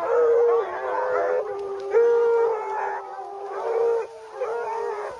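Howling: a run of long, held wails, one after another.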